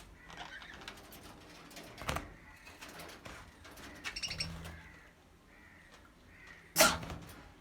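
Budgerigars chirping and chattering in short, high warbles, with one sharp knock near the end.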